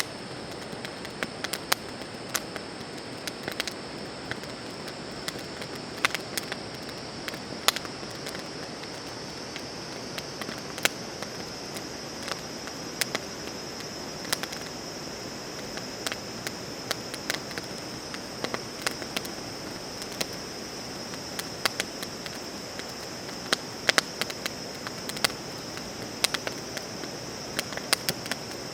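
Wood fire crackling, with irregular sharp pops scattered throughout, over a steady high-pitched chirring of insects.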